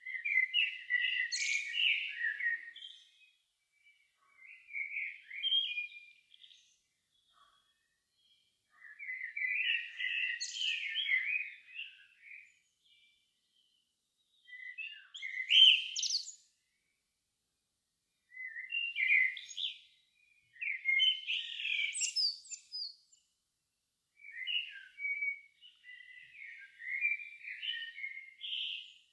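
A songbird singing at dusk, a run of about seven varied, high, warbled phrases, each a second or two long, separated by short pauses.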